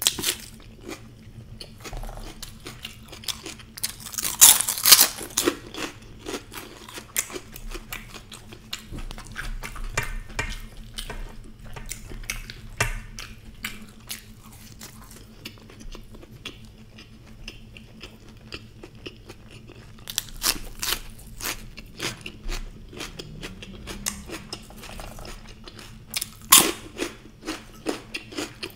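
Close-miked eating sounds: crunchy bites and chewing of fried samosa pastry, with the loudest crunches about four seconds in and again near the end.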